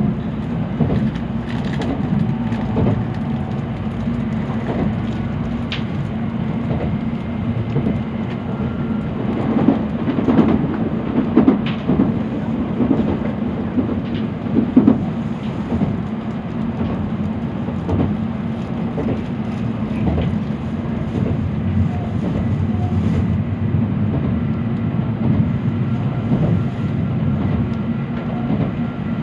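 Cabin running noise of an N700-series Shinkansen car: a steady low rumble of the wheels on the rails, with a run of louder knocks and clatters about ten to fifteen seconds in.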